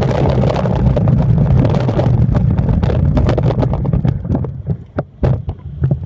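Train running on the rails: a loud low rumble with many sharp clicks, easing off about four seconds in.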